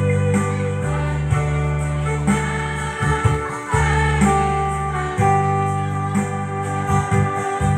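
Music: a women's choir singing with electronic keyboard accompaniment and a steady bass line.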